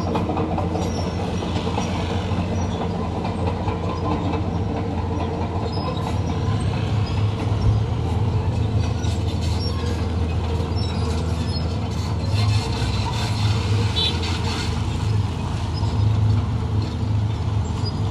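Crawler bulldozer's diesel engine running steadily under load while its steel tracks clatter. The engine swells a few times, near the middle and again toward the end.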